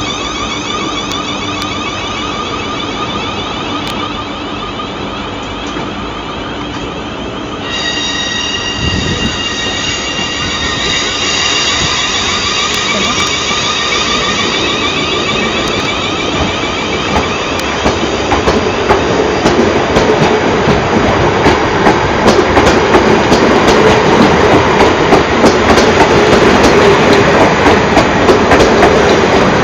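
Train on the rails: a steady high whine, joined about a quarter of the way in by a higher set of squealing tones. Past the middle it grows louder into a rumble of wheels with many sharp rail clicks as the train moves over the track.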